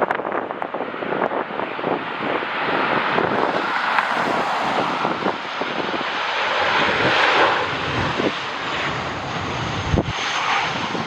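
Airliner jet engines running as the aircraft passes on landing, the roar swelling to its loudest about seven seconds in. Gusty wind buffets the microphone.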